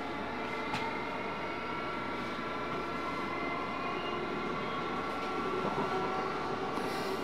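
Interior running noise of a Class 700 Thameslink electric train (Siemens Desiro City) travelling at speed: a steady rumble of the wheels on the rails, with faint steady high tones over it.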